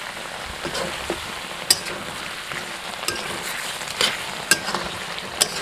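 Chicken and pumpkin curry sizzling in a kadai while a metal spatula stirs it. Steady frying hiss, with several sharp clicks of the spatula striking the pan.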